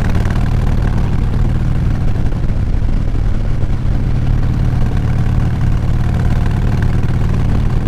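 Motorcycle engine running at a steady cruise, with wind noise from riding along the road.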